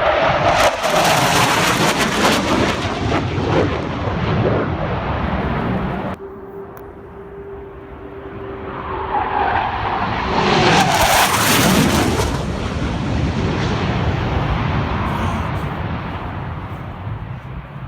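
Two low-level passes by military jets. Each is a roar that swells to a peak and fades away, its pitch sliding down as the jet goes past. The first is loudest in the opening seconds; the second builds from a steady whine, peaks about eleven seconds in and trails off.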